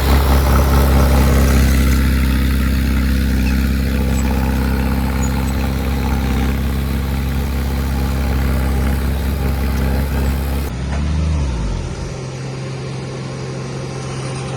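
Heavy diesel engine of earthmoving equipment running steadily with a deep, even hum. About eleven seconds in, the sound changes abruptly to a quieter, thinner engine note.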